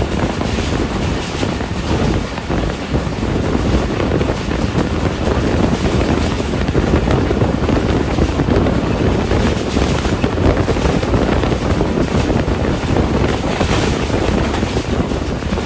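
Wind rushing over the microphone at the open window of a fast-moving passenger train coach, over the steady low rumble of the coach running on the rails. The noise is loud and even, with no clear breaks.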